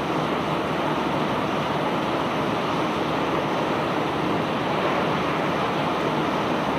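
Steady rushing noise from a self-unloading barge discharging its bulk cargo, with no separate knocks or engine tones standing out.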